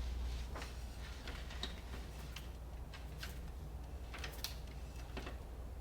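Faint, irregular light clicks and taps, about a dozen, over a low steady hum.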